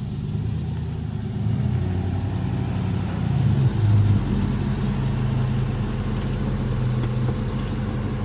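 An engine running steadily, briefly louder with a shift in pitch about three and a half seconds in, then settling back to a steady speed.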